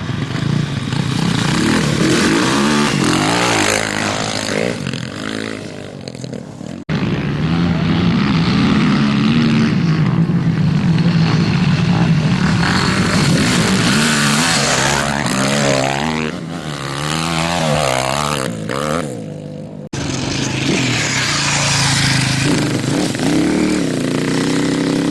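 Racing motorcycle engines revving up and down as bikes pass, the sound breaking off abruptly twice, about seven and twenty seconds in, where one shot changes to the next.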